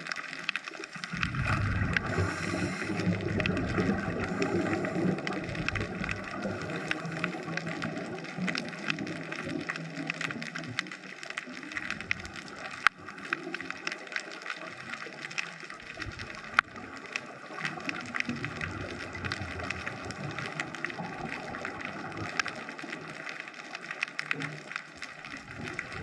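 Underwater ambience picked up through a GoPro's waterproof housing: a steady crackle of many small clicks, with a low rumbling for the first several seconds and a couple of sharper clicks later on.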